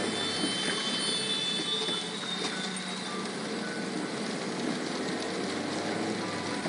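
Steady road and traffic noise of a car driving in the rain, with a few short high tones near the end.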